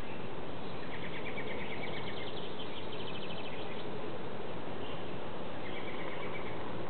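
Songbirds singing rapid trills of quickly repeated chirps, several in turn, over a steady background hiss.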